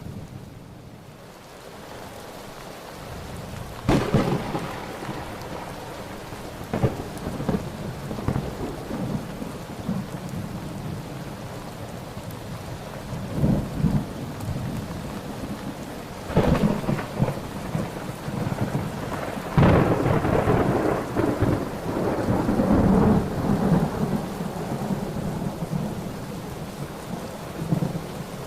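Thunderstorm: steady rain with repeated thunder, sudden sharp cracks about four seconds in, near seven seconds and twice past the middle, each trailing off into rumbling, the longest rumble rolling on for several seconds after the last crack.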